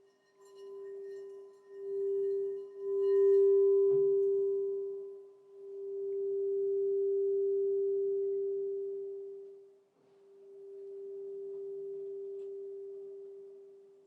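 Crystal singing bowl sounding one steady low tone that swells and fades in long waves, about five times. Faint higher ringing rides over it for the first few seconds, with a light knock about four seconds in.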